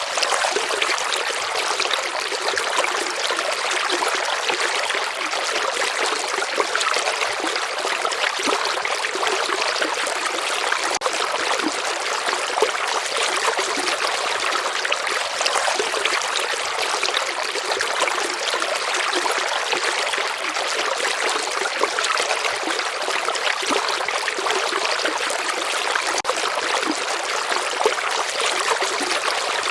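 River water running steadily, an even rushing hiss with fine trickling, and little deep rumble.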